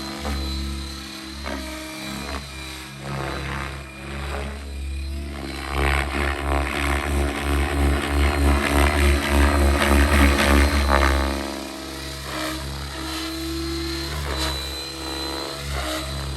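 Electric RC helicopter in flight, a Miniature Aircraft Whiplash 730: steady rotor noise and a high motor whine. In the middle it grows louder and pulses for several seconds as it manoeuvres, then eases off.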